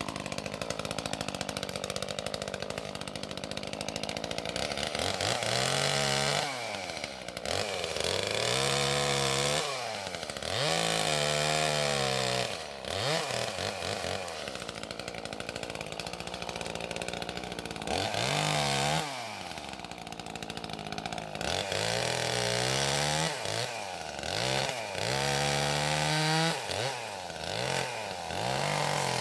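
Two-stroke chainsaw running and being revved again and again, its engine pitch climbing and dropping every few seconds.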